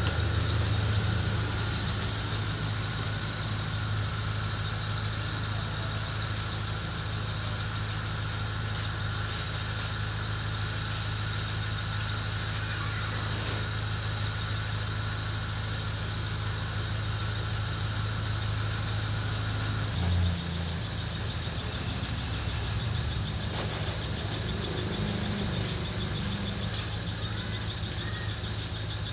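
Car engine idling with the air-conditioning compressor running during an R134a refrigerant recharge: a steady low hum with an even high-pitched hiss on top. About twenty seconds in there is a brief bump and the low hum shifts.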